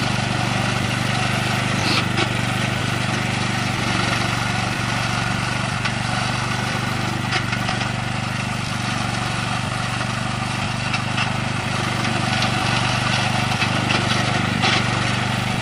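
Robotic lawn mower's 13-hp Tosaka petrol engine running steadily while the mower drives into and cuts through tall grass and weeds, with a few short sharp snaps along the way.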